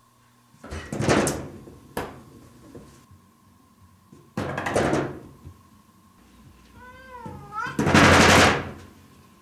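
A cat knocking at a door in several bursts of clatter, with a single sharp knock about two seconds in. One meow comes near the end, just before the loudest burst of knocking.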